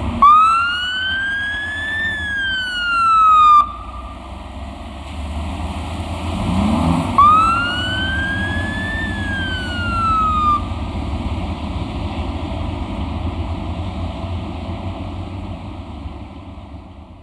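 Emergency vehicle siren giving two wails, each rising for about two seconds and then falling, over a steady low vehicle rumble that fades away near the end.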